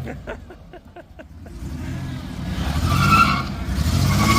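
Junkyard pickup truck's engine running on a derby lawn: for the first second and a half only a quick run of sharp ticks, then the engine revs back up, with short tyre squeals around three and four seconds in.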